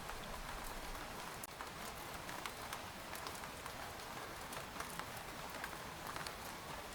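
Rain falling on a tent: a steady hiss of rainfall with scattered single drops ticking sharply on the fabric.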